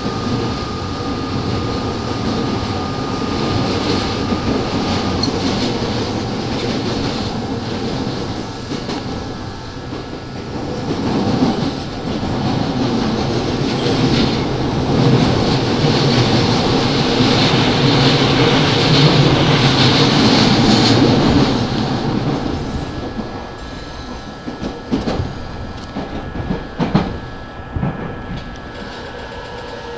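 E217 series electric commuter train heard from inside its motor car: wheels rumbling on the rails with rail-joint clickety-clack. There is a steady high tone for the first five seconds or so. The running noise grows louder through the middle, then drops off about two-thirds of the way in, as the train slows into the station, leaving separate wheel clicks over the joints.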